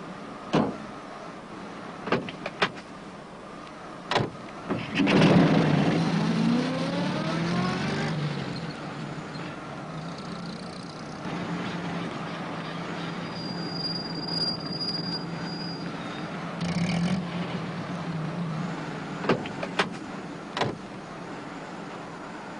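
Small van engine starting about five seconds in, revving up with a rising pitch, then running steadily, with a few knocks before it and a few more near the end.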